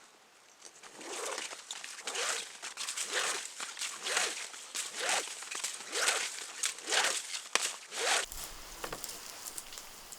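Footsteps crunching through dry leaf litter on a forest floor, a steady run of about one step a second that stops near the end.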